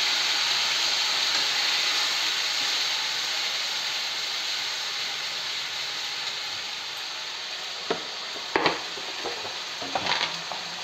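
Browned onions and freshly added ground spices sizzling in hot oil in a metal kadai, the sizzle slowly dying down. Near the end come a few short clacks of the spatula against the pan.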